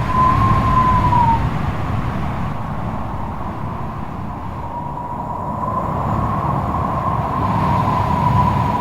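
Strong wind gusting, with a wavering whistle over a steady low noise. The whistle fades out about a second in and builds back from about halfway through.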